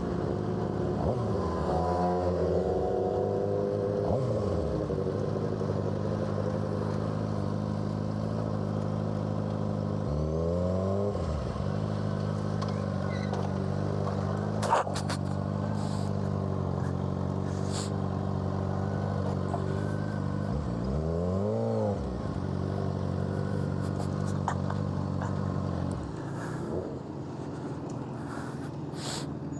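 Suzuki GSX-R600's inline-four engine with an M4 exhaust running at a steady speed, blipped twice so the pitch rises and falls, once about a third of the way through and again about two thirds through. A single sharp click sounds near the middle.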